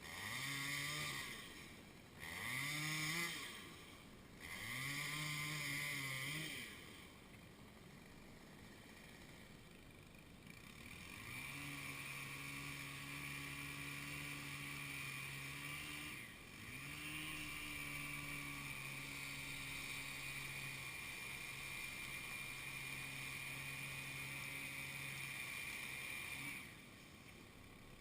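Two-stroke chainsaw revved up three times in short bursts, then held at full throttle for two long stretches of about five and ten seconds, with a brief dip in between.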